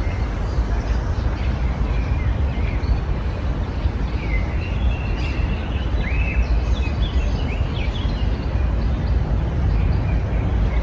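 Songbirds chirping and calling, with a flurry of calls in the middle, over a steady low rumble of background noise.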